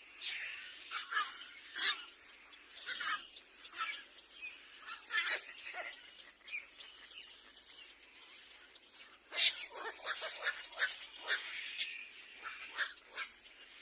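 Birds calling: a run of short, shrill, irregular calls, thickest about two-thirds of the way through.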